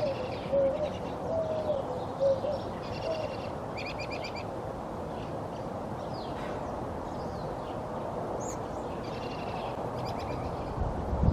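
Mixed backyard birdsong. A run of short, low cooing notes fills the first few seconds, with quick pulsed trills and scattered high chirps and whistles through the rest. A brief low rumble comes near the end.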